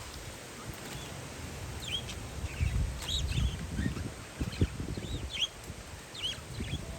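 Parakeets giving short, quick chirps again and again, with gusts of wind buffeting the microphone in low rumbles.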